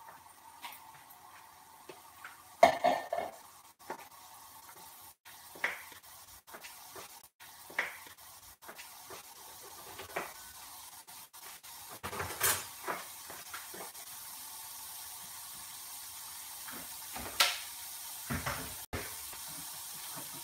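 Chopped onion, garlic and ginger frying in oil in a pan, a sizzling hiss that grows steadier in the second half. Scattered clinks and knocks of utensils and dishes come on top, the loudest about three seconds in.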